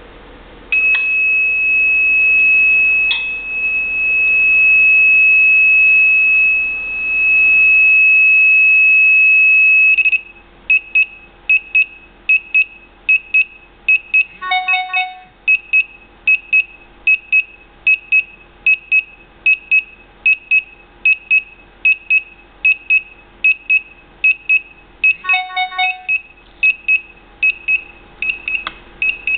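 An electronic leak-alarm buzzer sounds a continuous high-pitched tone for about nine seconds, then switches to rapid beeping, about two beeps a second: the water-detected alarm of a FloodStop shut-off valve system. Two brief alert tones of several notes cut in partway through.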